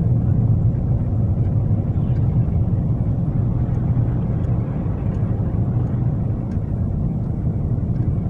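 Steady low rumble of a car's engine and tyres heard from inside the cabin while climbing a hill on a snowy, sanded road.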